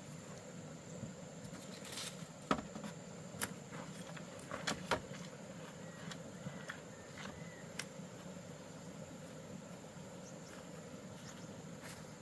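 A few scattered light knocks and clicks, the loudest about two and a half seconds in and several more close together around five seconds, over a steady low background hum and a thin high steady tone.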